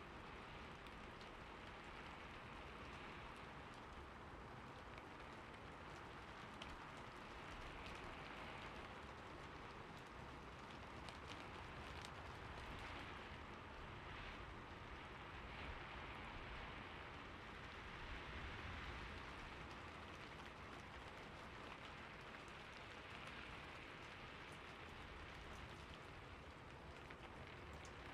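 Faint, steady water ambience: a continuous splashing, pattering wash of falling water with scattered small ticks.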